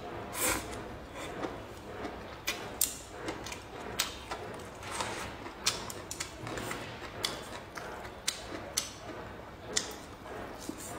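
Close-up eating sounds: chewing and lip smacking over a mouthful of stir-fried bamboo shoots and cured pork, with irregular sharp clicks and crunches about once or twice a second.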